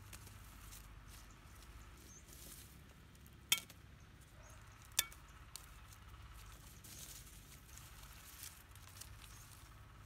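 Two sharp metallic strikes about a second and a half apart, each ringing briefly, from a metal hand tool hitting the ground, over a faint steady background.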